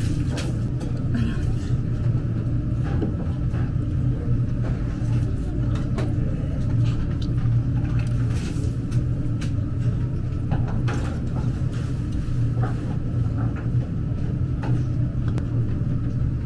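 Steady low rumble, with scattered light clicks and taps over it.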